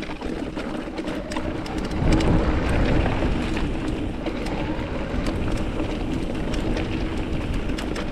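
Mountain bike rolling over a rough, rocky trail: steady tyre and ride noise with many small rattling clicks, louder from about two seconds in.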